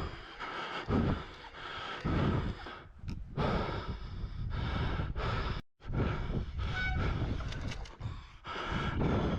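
A rider breathing hard, with gasping and sighing breaths, while straining up a very steep climb: the sound of exhaustion.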